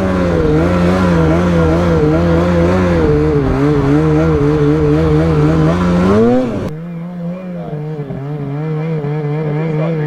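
Snowmobile engine running under throttle, its pitch wavering up and down. About six seconds in it revs up, then the sound abruptly turns quieter and duller while the engine carries on, rising again near the end.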